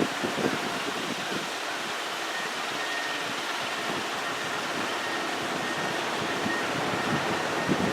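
Steady rushing outdoor noise with wind buffeting the microphone, the gusts dying away just after the start. A faint, steady high whine joins about two seconds in.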